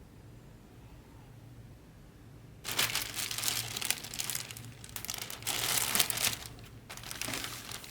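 Quiet room tone, then about two and a half seconds in, bursts of scratchy rasping noise begin, with short breaks between them.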